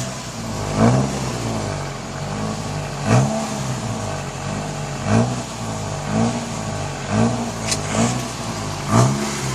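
Rebuilt 2.4-litre 4G69 four-cylinder engine of a 2006 Mitsubishi Eclipse GS on its first warm-up run, given repeated light throttle blips. The note rises and falls about once a second, some eight times, as the throttle is varied gently rather than left at a dead idle or revved hard.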